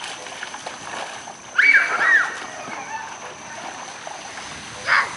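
Water splashing over a steady hiss of moving water, with a short high-pitched squeal about one and a half seconds in.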